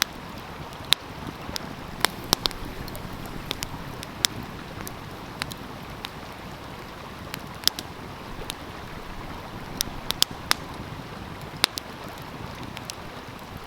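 Wood fire crackling, with sharp irregular pops and snaps, over the steady rush of a flowing stream.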